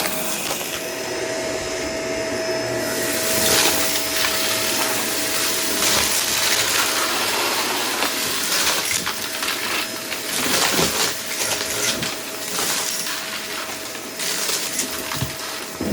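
Vacuum cleaner running with a steady motor whine while it sucks up dry debris, which rattles and crackles through it in many irregular clicks.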